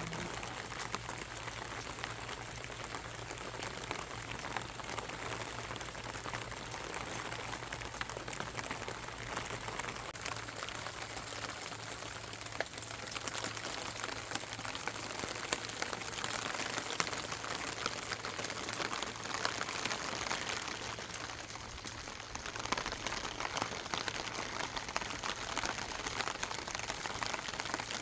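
Steady rain falling, with many individual drops ticking close by on surfaces. It eases briefly a little past two-thirds of the way through, then picks up again.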